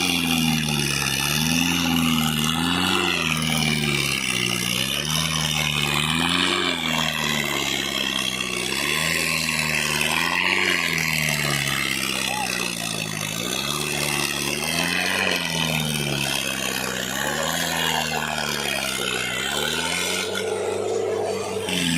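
Tractor engine running, its pitch rising and falling every second or two.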